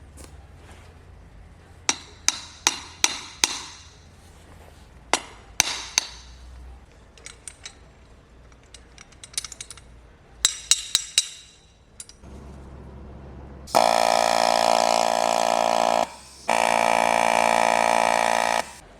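Metal parts clinking and knocking several times with a short ring, then a power tool's motor running at a steady pitch, switched on for about two and a half seconds, briefly off, then on again for about two seconds, stopping abruptly.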